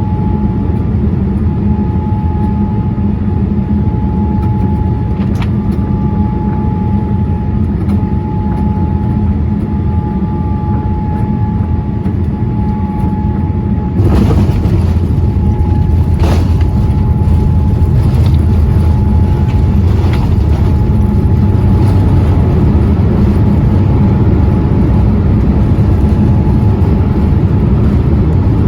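Jet airliner cabin noise: a steady rumble of engines and airflow with a steady tone above it. About halfway through it abruptly gets louder and fuller, with a few brief knocks.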